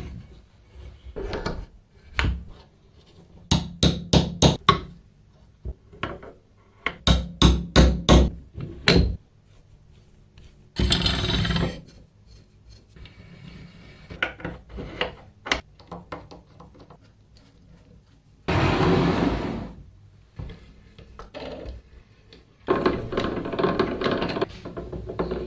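Hand work on metal tool parts: quick runs of sharp taps and knocks, broken by three short stretches of rushing, scraping noise.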